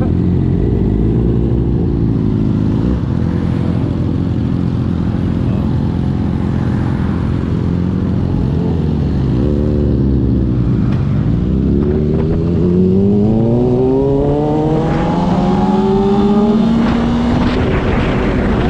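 Motorcycle engine running at speed; it eases off about halfway through, then pulls away with a long climb in pitch and a gear change near the end, over a steady rush of wind on the microphone.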